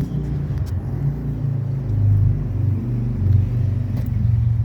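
Steady low rumble that swells and eases slightly in loudness.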